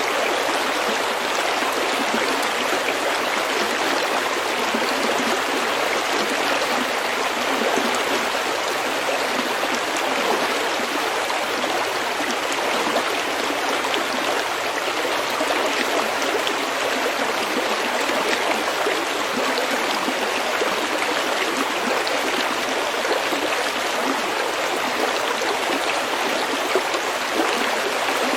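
Small stream flowing over pebbles: a steady gurgle of running water with tiny splashes throughout.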